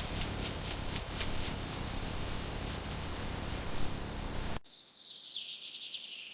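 Cartoon sound effects: a steady rushing noise with rapid ticking that cuts off suddenly about four and a half seconds in, followed by a high warbling whistle sliding downward.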